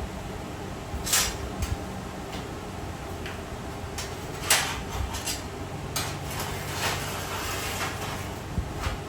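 Scattered knocks and clatters of metal parts being handled during work on a steel smoker, the loudest about four and a half seconds in, over a steady hum.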